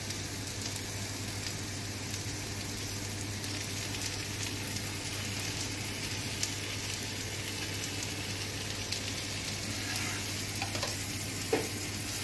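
Paratha frying on a hot tawa as desi ghee is brushed over it, giving a steady sizzling hiss.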